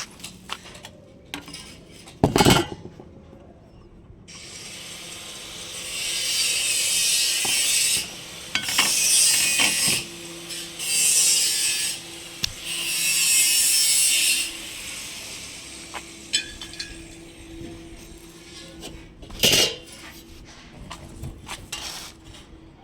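Four bursts of harsh scraping noise, like sawing, each lasting one to two seconds, with a sharp knock before them and another near the end.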